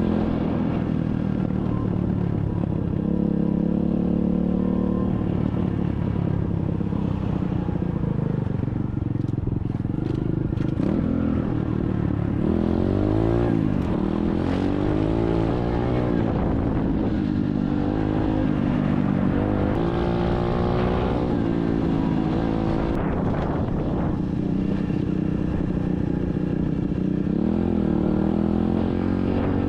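SSR 125cc dirt bike's single-cylinder four-stroke engine running as it is ridden, the revs rising and falling repeatedly with the throttle through the middle of the stretch.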